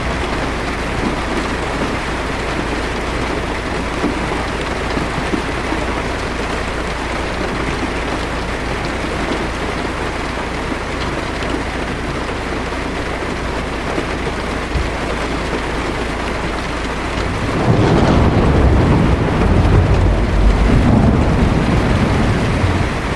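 Heavy rain drumming on a car's windshield and roof, heard from inside the car as a steady hiss. About three-quarters of the way in, a thunder rumble comes in and rolls for several seconds, louder than the rain.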